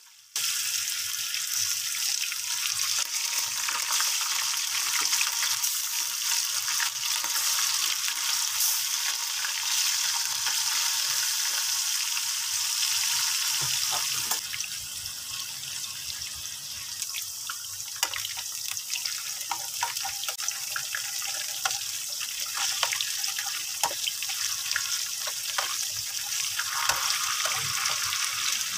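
Potato slices frying in hot oil in a nonstick pan: a steady sizzle with fine crackling, a little quieter from about halfway.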